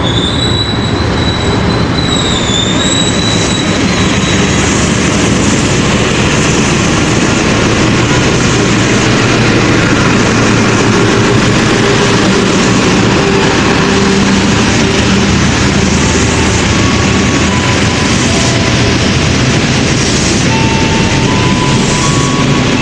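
A diesel-hauled express passenger train passing through a station at speed without stopping: the locomotive goes by, then a long run of coaches with a steady rush of wheel and rail noise. A thin high whine sounds over it in the first few seconds.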